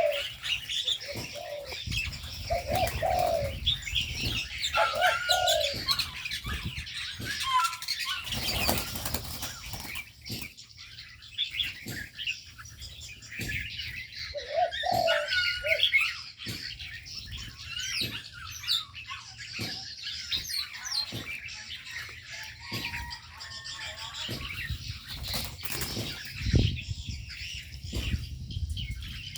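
Birds in an aviary: doves giving short low coos, mostly in the first few seconds and again about halfway, over a steady chatter of small birds chirping, with frequent brief wing flaps and flutters throughout.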